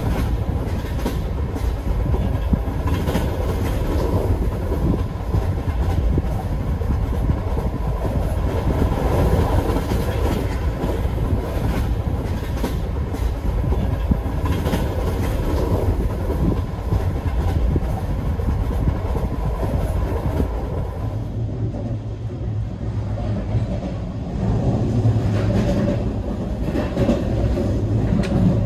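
Couchette sleeping car rolling along the track, heard from inside the compartment: a steady rumble of the wheels with a quick irregular clickety-clack over rail joints. After about two-thirds of the way through the hiss thins out and a deeper rumble takes over.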